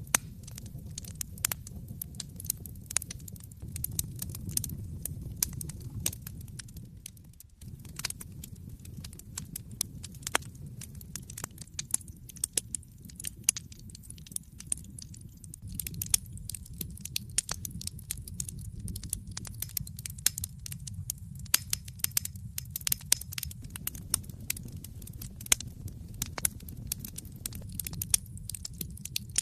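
Wood fire burning in a fireplace: frequent sharp, irregular crackles and pops of burning logs over a low, steady rumble of the flames.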